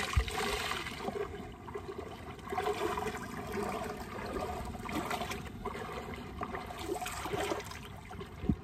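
Shallow river water splashing and trickling as laundry is washed by hand, water running off a wrung-out garment into a plastic basin. A dull thump near the end.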